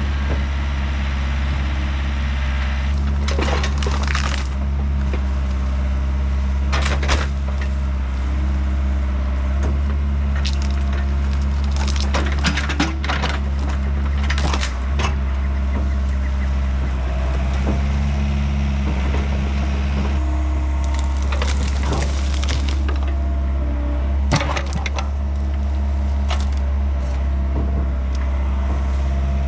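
Compact excavator's diesel engine running steadily while hickory wood cracks and splinters in a series of sharp bursts, branches breaking as the fallen tree is handled.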